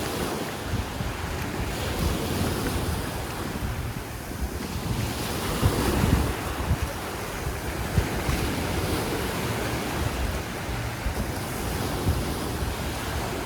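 Sea waves washing onto a beach in a steady rush, with wind buffeting the microphone in uneven low gusts.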